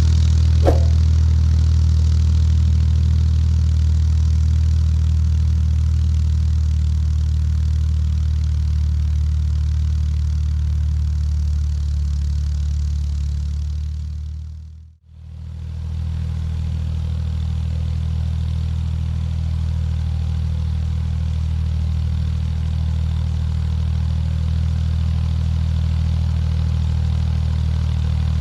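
Tractor engine running steadily under load while pulling a cultivator through the field. A short metallic clang comes just under a second in, and about halfway through the sound fades out briefly and comes back.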